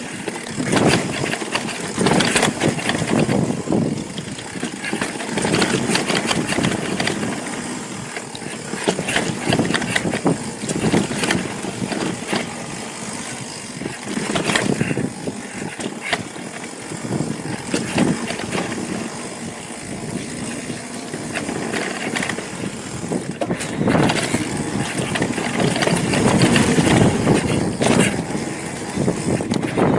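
Mountain bike descending rocky singletrack: tyres crunching over dirt and rock, with a constant rattle of knocks from the bike over the bumps and a rush of wind on the microphone.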